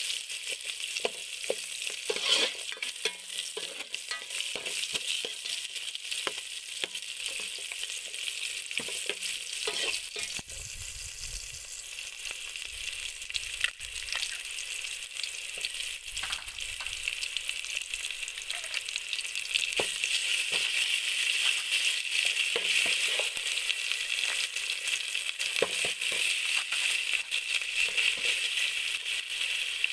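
Sliced shallots, lemongrass, garlic and chilies sizzling as they fry in an aluminium pot, with a metal ladle stirring and clinking against the pot. The sizzle grows louder about two-thirds of the way through.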